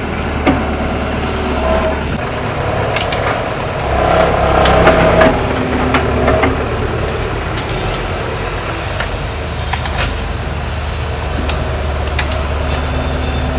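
Excavator's diesel engine running steadily, rising louder for a couple of seconds about four seconds in, with a few sharp knocks.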